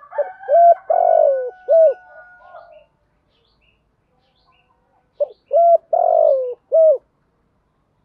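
Spotted dove cooing, its lure call given as two phrases of short coos with a longer, falling middle note, the first at the start and the second about five seconds in. Faint high chirps sound in between.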